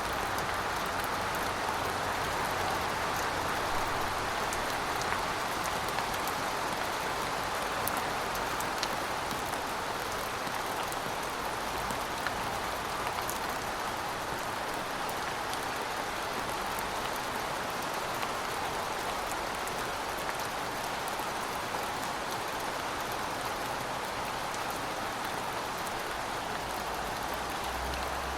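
Steady rainfall: a continuous even hiss of rain with scattered individual drop ticks.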